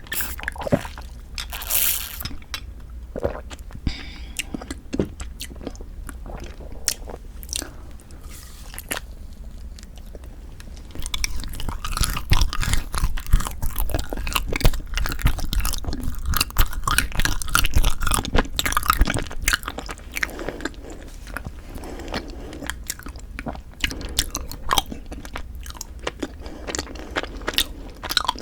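Close-miked mouth sounds of biting and chewing Kiri cream cheese and rice-cake ice cream: scattered crunches and clicks at first, then denser, louder chewing from about eleven seconds in until about twenty seconds, then sparser again.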